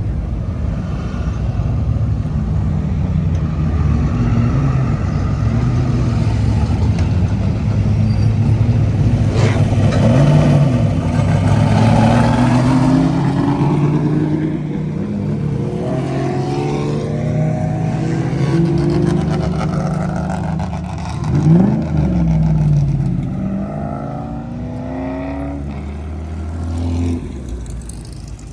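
Several cars' engines running and revving as they drive past, their pitch rising and falling. One passes close about two-thirds of the way through, loudest then, its pitch dropping as it goes by.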